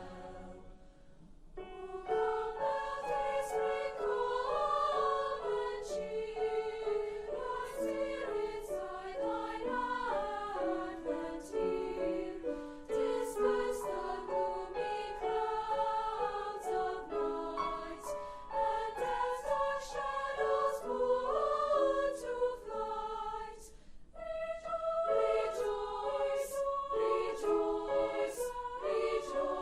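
Choir singing, several voice parts moving in harmony. It starts about two seconds in after a short gap and breaks off briefly about three-quarters of the way through.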